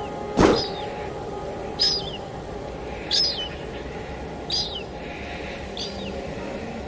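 Steady rain with a bird calling five times, a little over a second apart, each call a short chirp that slides down in pitch. The first call is the loudest and comes with a sharp click.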